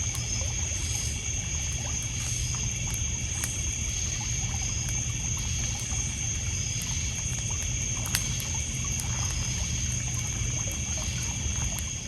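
Crickets and other insects trilling steadily at several high pitches, with a wood fire crackling in scattered small pops and one sharper pop about eight seconds in. Water trickles and laps on a pebble shore over a low steady rumble.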